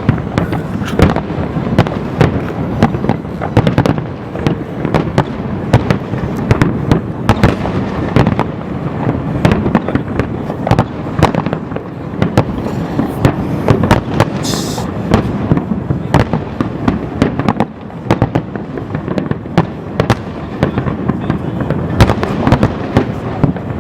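Large fireworks display: a dense, unbroken run of sharp bangs and booms over continuous crackling.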